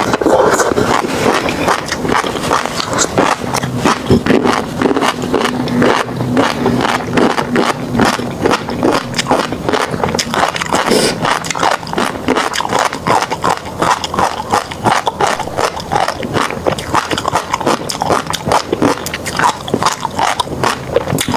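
Close-miked chewing of tobiko fish roe: a dense, continuous crackle of small pops and clicks as the eggs burst between the teeth.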